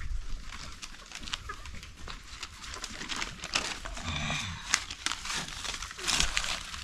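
Dry sticks and leaves rustling and crackling as firewood is handled, with many short snaps. A brief animal call sounds a little past the middle.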